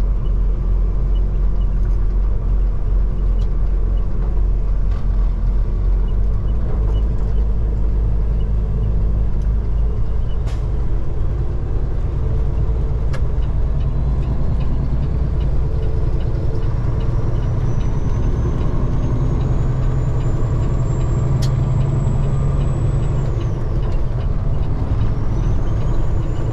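Semi truck's diesel engine and road noise while driving: a steady low rumble, with a thin high whine that climbs slowly over several seconds, drops near the end and climbs again.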